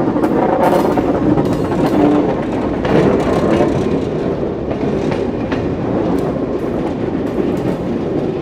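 A train rolling along the track, with a steady rumble and the wheels clicking irregularly over the rails.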